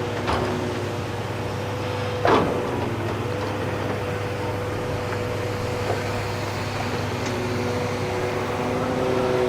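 Heavy diesel earthmoving equipment running steadily, with one loud clank about two seconds in and a few lighter knocks.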